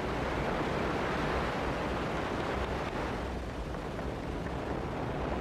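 Ariane 5 rocket engines and solid boosters firing at liftoff: a steady, even rushing noise.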